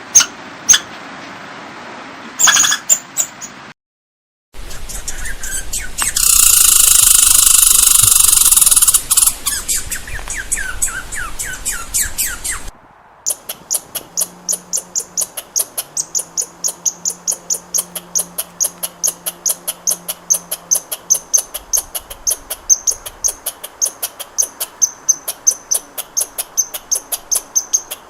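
Squirrel alarm calls from several spliced recordings. First come scattered sharp chirps, then loud rapid chirping. From about halfway through, a long steady series of sharp, high chips about three a second.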